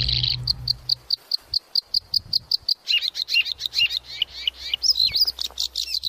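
Birds chirping: a fast, even string of short high chirps, about eight a second, then a busier run of varied, sweeping chirps. The tail of a music track fades out in the first second.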